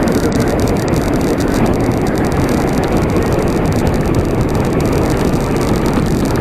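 Steady rushing noise of riding a bicycle on a road, heaviest in the low range: wind on the microphone and road noise.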